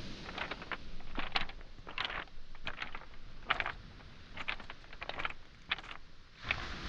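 Footsteps on beach pebbles and small boulders: stones clacking and crunching underfoot in quick irregular clusters, over a low rush of waves on the shoreline that swells again near the end.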